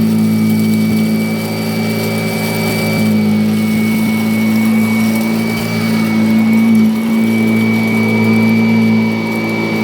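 Upright vacuum cleaner running steadily: a motor hum with a thin high whine over it.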